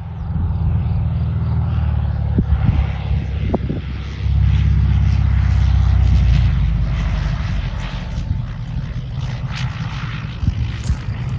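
Engines of an Ilyushin Il-18 turboprop airliner running, a loud low rumble that swells about four seconds in and eases off again, with scattered knocks and crackles over it.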